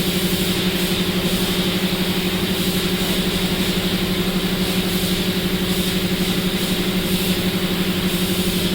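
A motor running steadily at constant speed with an even, fast pulse, like an engine idling or a workshop machine running.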